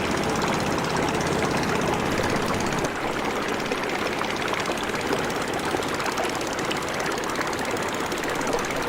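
Boat engine running steadily with a dense mechanical noise; its low hum drops away about three seconds in while the running noise carries on.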